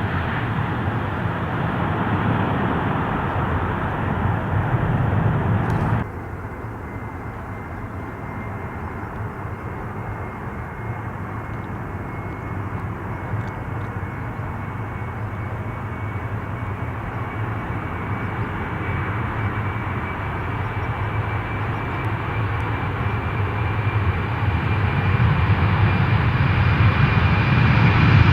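Jet airliner engines. The loud noise drops off suddenly about six seconds in, then builds steadily again with a thin, steady high whine as an aircraft draws closer.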